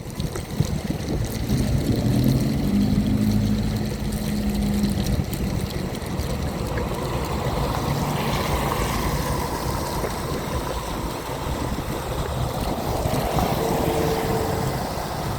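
Wind buffeting the microphone and wet-road noise during a wheelchair ride in the rain, a steady low rumble. A low humming tone comes in about two seconds in and fades out around five seconds.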